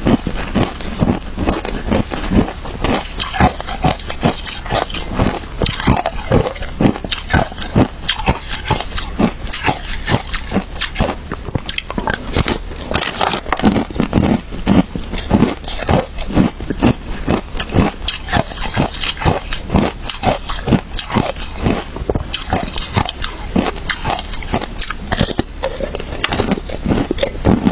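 Close-miked chewing of shaved ice: a continuous run of crisp, irregular crunches, several a second, without a break.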